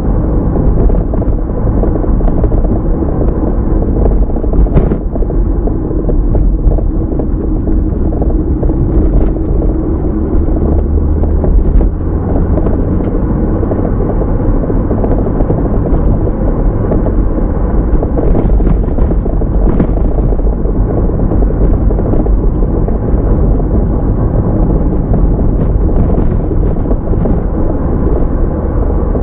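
A car being driven: steady low road and engine rumble as picked up by the dashcam, with a few faint clicks.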